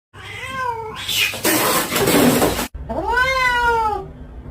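Domestic cat meowing: a short meow, then a harsh, noisy stretch of about a second and a half that cuts off suddenly, then one long, drawn-out meow that rises and falls in pitch.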